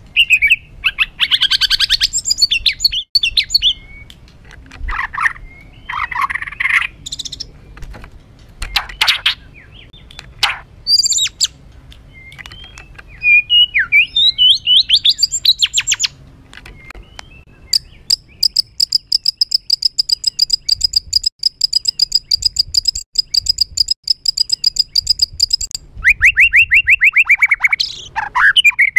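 White-rumped shama (murai batu) singing a harsh, agitated song. It starts with varied short phrases of sharp whistles and rasping notes, then runs into a long, even, rapid high trill lasting about eight seconds, and ends with a run of quick repeated notes. This is the rough, excited song that bird keepers play to provoke other shamas.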